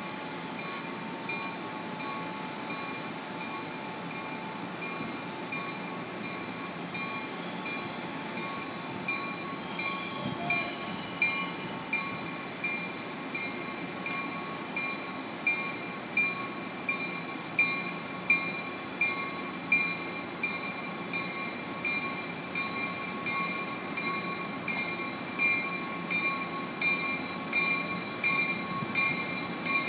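Passenger train pulling into a station platform: a steady ringing over a low rumble, with a regular beat of strikes about one and a half a second that grows louder as the train draws near.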